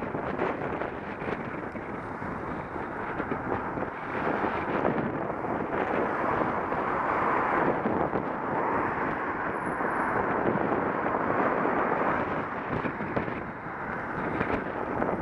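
Wind rushing over the microphone of a bicycle-mounted action camera while riding, a steady muffled rushing noise that swells a little in the middle and eases near the end.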